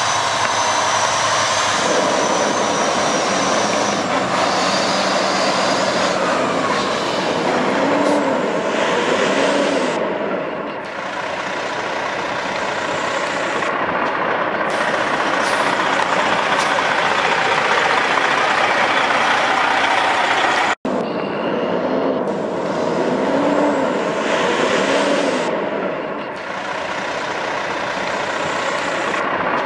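Freightliner Columbia tractor's 14-litre Detroit Diesel engine running, a loud steady truck noise with a wavering lower tone, and a brief break in the sound about two-thirds of the way through.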